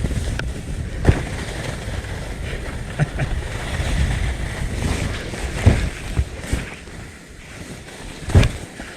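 Skis sliding and scraping over snow, with wind rumbling on the action camera's microphone. A few sharp thumps break in, the loudest near the end.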